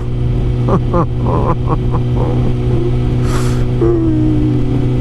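Kawasaki ZZR600 inline-four motorcycle engine running at steady revs while riding, heard from the bike with road and wind noise. There is a brief hiss about three seconds in.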